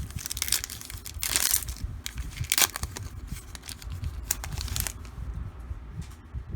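A trading-card pack wrapper being torn open and crinkled, in several short crackling bursts over the first five seconds.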